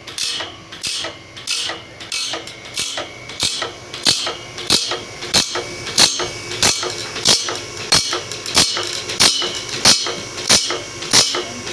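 Bandsaw blade grinding machine working along a blade: a sharp, even grinding stroke about one and a half times a second as it takes the teeth one after another, over a faint steady motor hum.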